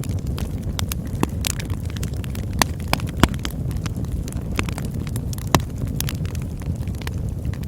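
Campfire burning: a steady low rumble of flames with irregular crackles and sharp pops, a few louder snaps about a third and two thirds of the way through.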